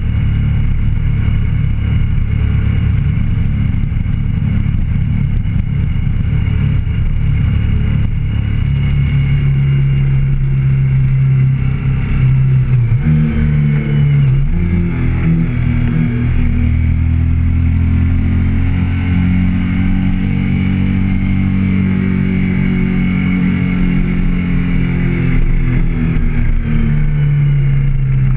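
Motorcycle engine running while riding, its pitch shifting in steps about halfway through as the rider changes gear and speed, then holding steady before dropping near the end.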